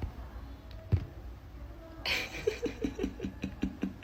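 A single knock about a second in, then a person laughing in a quick run of short, evenly spaced 'ha' sounds from about halfway.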